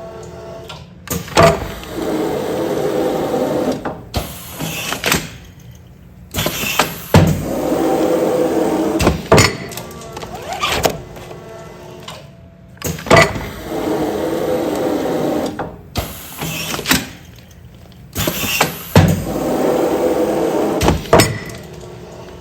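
Automatic pneumatic container sealing machine running continuous sealing cycles, about one every six seconds, four in all. Each cycle is a few sharp clacks followed by about two seconds of steady rushing noise.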